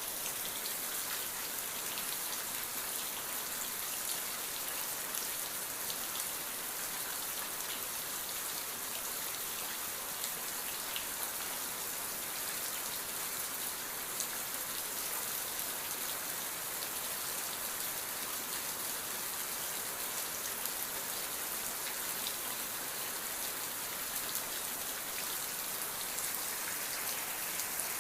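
Steady rain falling: an even hiss dotted with the small ticks of individual drops.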